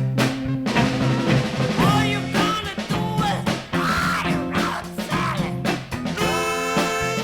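A 1960s beat band playing an instrumental passage, with pitched lines over bass and drums. It is a dry studio recording, made in one take without reverb.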